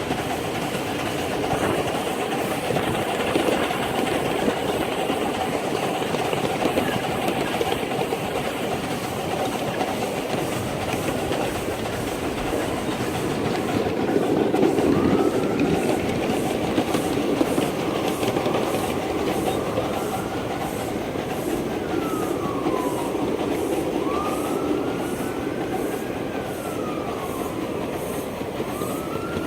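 Ride-on live-steam Atlantic locomotive and train running on the track, wheels clicking steadily over the rail joints. In the second half a squeal rises and falls several times, a few seconds apart.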